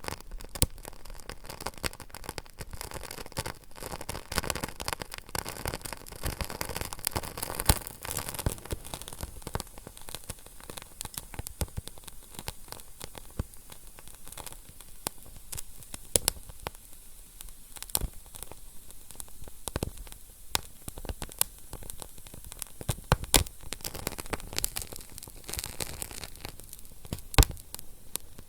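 Fire crackling: irregular sharp pops and snaps over a soft hiss, busiest in the first several seconds and sparser after.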